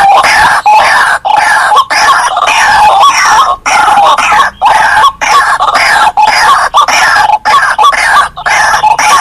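White-breasted waterhens (ruak-ruak) calling: a loud, continuous run of harsh, repeated notes, broken by brief gaps every second or so.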